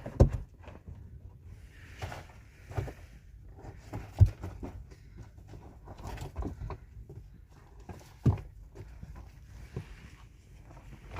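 Irregular handling noises: three heavy thuds about four seconds apart, with lighter knocks and short scraping or rustling sounds between them.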